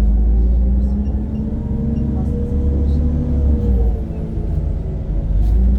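Engine drone and low rumble inside a NefAZ-5299 city bus running on compressed natural gas as it drives, the engine note easing off a little past the middle before picking up again.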